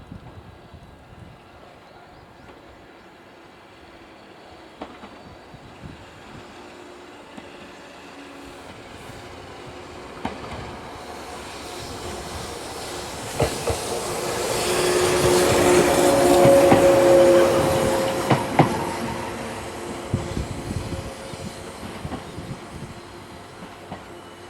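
A Series 123 single-car electric railcar passing at speed: its sound builds over several seconds to a peak about two thirds of the way in, then fades. Near the peak its wheels clack over rail joints in quick pairs, and a few steady tones are heard while it is closest.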